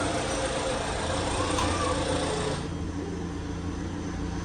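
A car engine running steadily, with a loud hiss over it that stops about two and a half seconds in.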